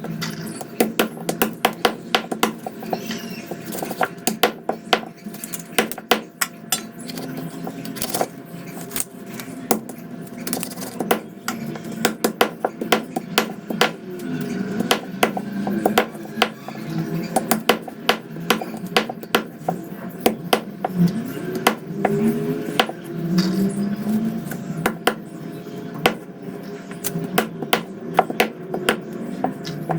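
Repeated sharp knocks of a knife chopping a freshly cleaned rooster into pieces on a board, coming irregularly, sometimes several a second.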